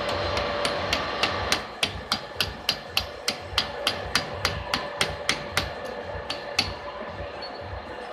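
Sharp metallic taps at an even pace, about three and a half a second, over a faint steady hum. They stop about five and a half seconds in, then come twice more about a second later.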